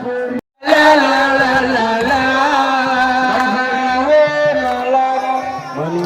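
A single voice singing long, held notes that waver and slide in pitch. The sound drops out completely for a moment about half a second in.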